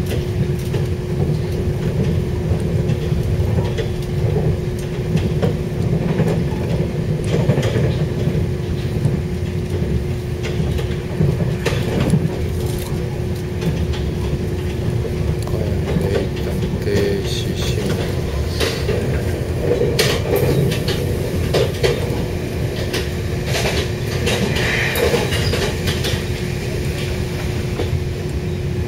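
Passenger train running at speed, heard from inside the carriage: a steady low rumble with a constant hum and scattered clicks and knocks from the wheels on the track.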